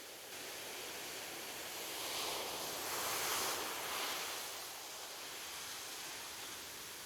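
Gentle ocean waves washing onto a beach: a steady hiss that swells about two seconds in, peaks around three seconds, and recedes again.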